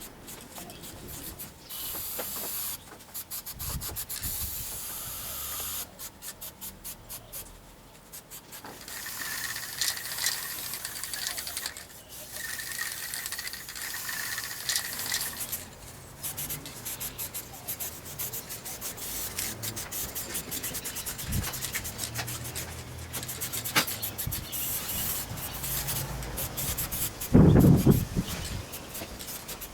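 Repeated rubbing strokes on wood, like hand sanding of the timber, with a single louder thump near the end.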